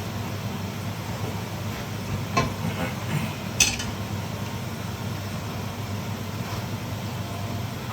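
Steady low mechanical hum with a few light clinks of a utensil against cookware, the two sharpest about two and a half and three and a half seconds in.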